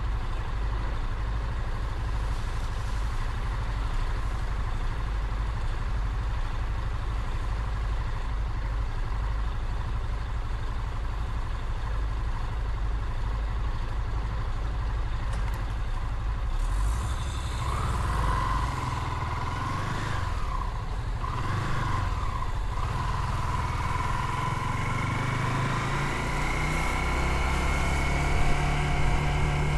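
Motorcycle riding, with a steady low rumble of engine and wind. From a little past halfway the engine note rises and falls as it revs, and it climbs steadily near the end as the bike accelerates.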